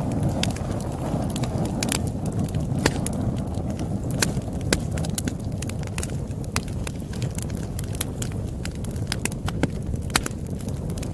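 Wood fire crackling: irregular sharp pops and snaps over a steady low rumble of flames.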